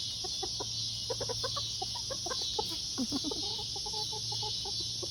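Chicken hen clucking: a run of short, quick clucks, then a longer, steadier trill about three seconds in.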